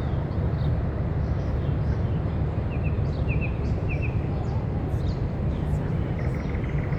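Outdoor ambience: a steady low rumble with a bird chirping three times in the middle and a short buzzy trill near the end.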